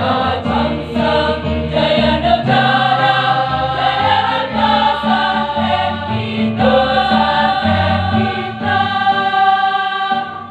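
Choir singing a march over musical accompaniment, closing on a long held chord near the end.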